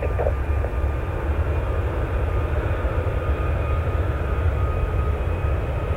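Airliner engine noise: a steady low rumble with a faint, thin high whine that fades out near the end.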